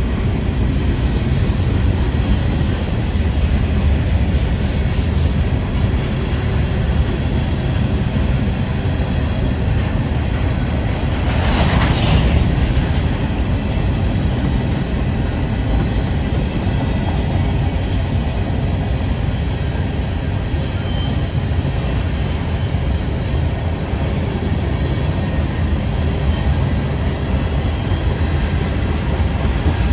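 Freight train rolling past on steel rails: a steady, loud low rumble of wheels and cars. About twelve seconds in there is a brief louder rush of noise.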